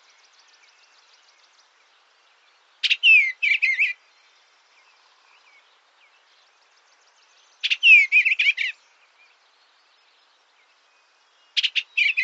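A songbird singing the same short warbled phrase, each about a second long, roughly every four seconds: three times, with a fourth starting near the end. Fainter high chirps sound between the phrases.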